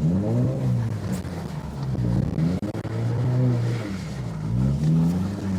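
Turbocharged Scion FR-S flat-four engine revving up and easing off about three times while the car is driven on ice with traction control partly switched off.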